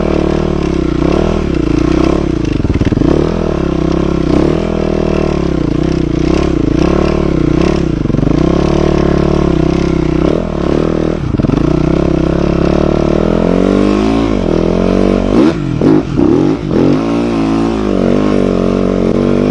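Yamaha YZ-F four-stroke dirt bike being ridden, its engine revving up and down continuously as the throttle is worked, with pitch rising and falling every second or two and a few sharp drops and pickups near the end.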